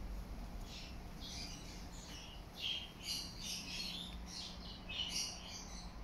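Small birds chirping in short, repeated high calls, a few louder ones near the middle and near the end, over a low steady hum.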